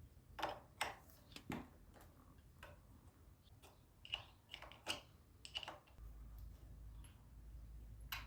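Faint, irregular light clicks and taps, about a dozen of them, a few with a brief ringing tone; a low hum comes in about six seconds in.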